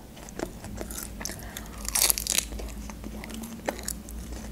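Bite of fresh spinach leaves and close-up chewing: crisp crunching and wet mouth clicks, with the loudest crunch about two seconds in.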